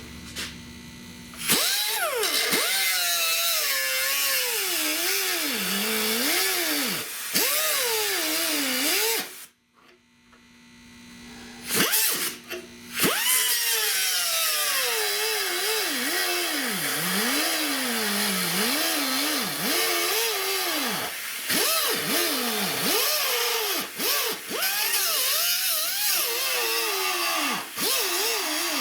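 Power cutting tool cutting into the sheet-metal window pillar, its motor pitch dipping and recovering as it bites into the metal. It runs for about eight seconds, stops for about three, then runs again.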